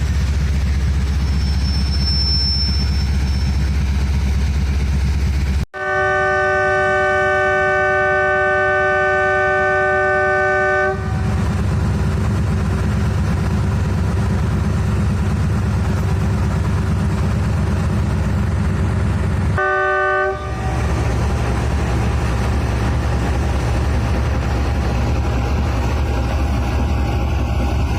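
ZCU-30 diesel-electric locomotive running with a steady low rumble, sounding its multi-tone horn in a long blast of about five seconds, about six seconds in, and a short second blast about two-thirds of the way through.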